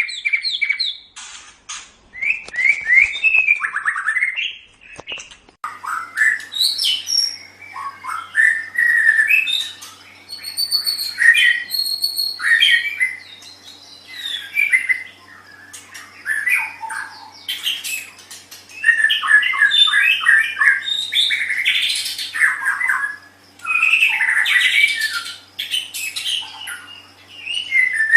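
White-rumped shama singing a long run of varied phrases: clear whistles, quick chattering trills and harsh squawking notes, with short pauses between phrases. A faint steady hum comes in under the song about five seconds in.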